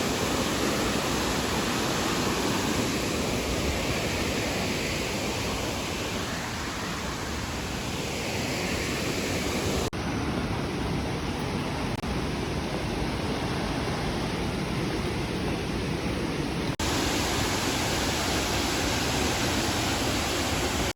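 Shifen Waterfall's falling water making a steady, even rush, with sudden small changes in its sound about ten and seventeen seconds in.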